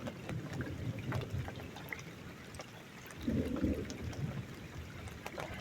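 Rainwater trickling and dripping in a thunderstorm: a steady run of water with many small sharp drips over a low rumble, swelling briefly about three seconds in.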